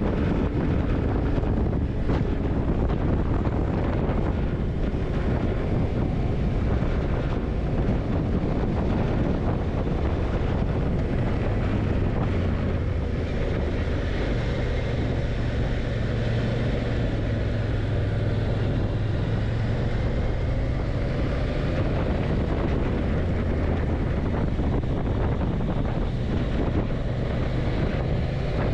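Yamaha TDM900's parallel-twin engine running as the motorcycle rides along, under heavy wind noise on the microphone. The engine note grows stronger a little before halfway and eases back about two-thirds through.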